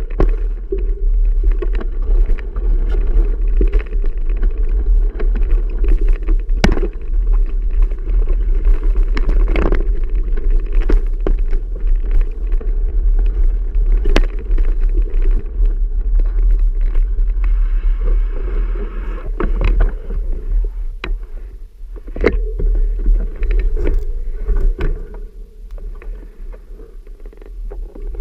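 Wind rumbling over the microphone of a camera riding along on a moving bicycle, with frequent knocks and rattles from the bike over the trail.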